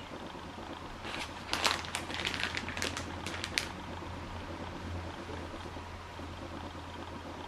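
Small handling noises: a quick cluster of light clicks and rustles lasting about two and a half seconds, over a steady low hum.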